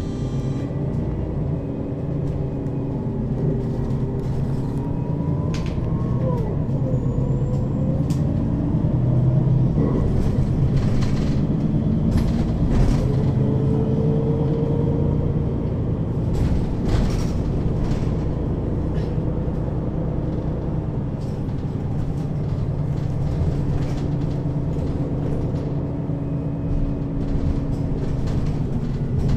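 Mercedes-Benz Citaro city bus heard from inside while driving: the diesel engine runs with a steady low rumble, the ZF Ecomat automatic gearbox whine rises and falls a few times, and the body gives scattered rattles and knocks.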